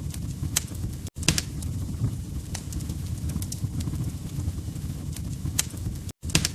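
Log fire crackling in a fireplace: a steady low rumble of flames with sharp pops scattered about once a second. The sound cuts out completely for an instant about a second in and again near the end.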